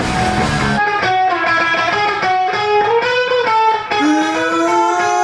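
Electric guitar playing a solo line of bent, sliding notes on a live rock stage. The rest of the band cuts out about a second in, leaving the guitar on its own.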